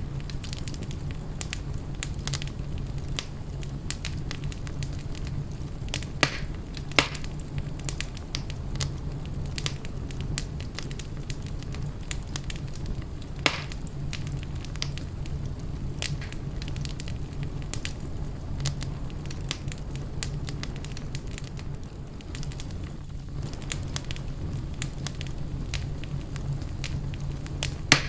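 Wood fire burning in a fireplace, crackling with frequent small snaps and a few louder pops, over a steady low rumble.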